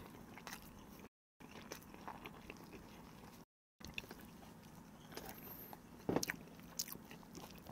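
Faint chewing of a toast sandwich, with soft mouth clicks and small wet sounds, and one slightly louder mouth sound about six seconds in.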